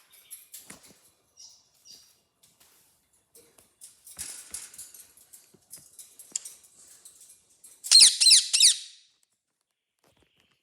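Pet birds chirping and squeaking in short, high-pitched calls, scattered at first and busier after about four seconds. A loud run of rapid, repeated high chirps comes about eight seconds in and lasts about a second.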